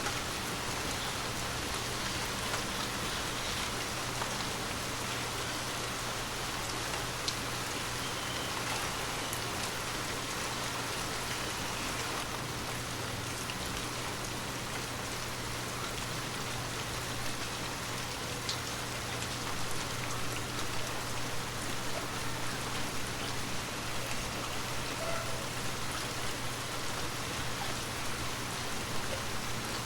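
Gentle rain falling steadily, with the patter of individual drops ticking through an even hiss.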